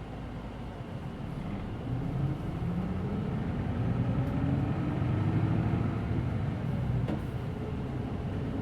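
Hino Blue Ribbon City Hybrid bus's diesel engine pulling away and accelerating, heard from inside the cabin: its note and loudness rise over the first few seconds and ease off slightly near the end.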